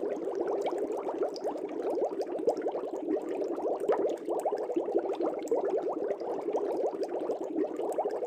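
Aquarium bubbles: a steady, dense stream of small bubbles gurgling and popping in a fish tank.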